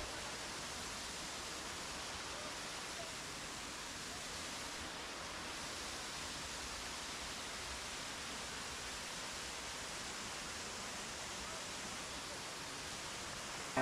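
Steady rushing water, an even unbroken hiss with no change throughout.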